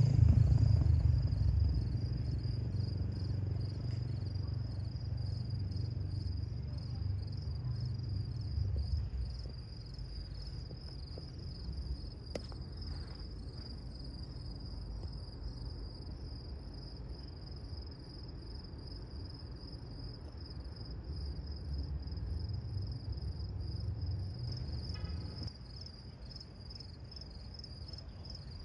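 Diesel locomotives of a freight train pulling away from a stop under power: a deep engine rumble, loudest in the first few seconds, easing off, then swelling again near the end. Crickets chirp steadily throughout.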